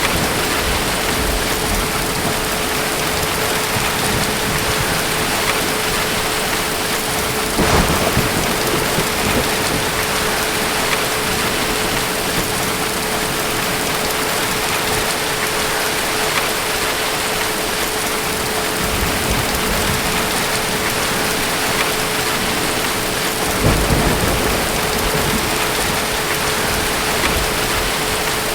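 Steady rain falling with low thunder rumbles, one swelling about eight seconds in and another later on, over a faint steady tone.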